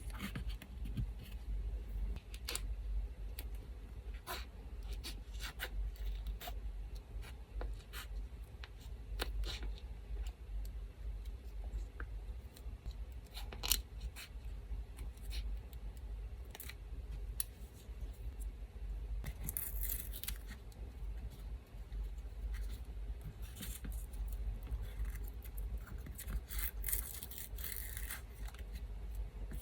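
Scissors snipping paper in many short, sharp cuts, with paper rustling and handling now and then, over the steady low hum of an electric fan.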